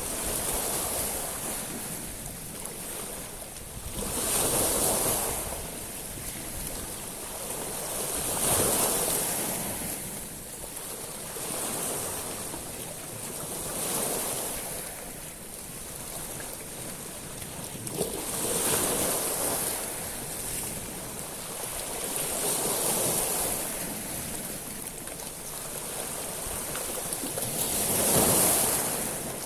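Sea waves breaking on a shingle beach of small stones, one swell every four or five seconds, each wash with a high hissing rattle of pebbles; the largest comes near the end.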